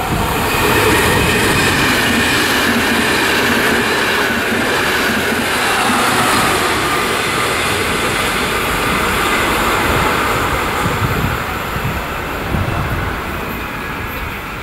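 Electric passenger train running through a station close by, wheels rumbling on the rails, with a tone that glides slowly downward over the first several seconds. The noise eases a little near the end.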